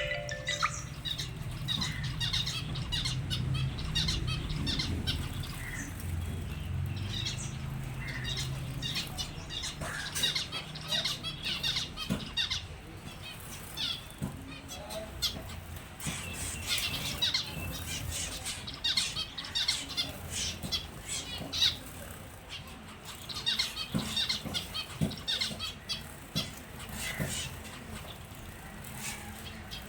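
Small finches chirping with many short, high calls scattered throughout, along with the fluttering of wings as they bathe.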